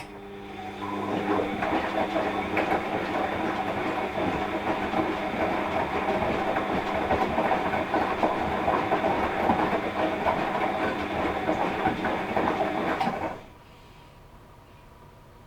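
Washing machine starting up with a click and a rising hum, then running with a dense, steady rattling clatter that stops abruptly about 13 seconds in, leaving a faint steady hum.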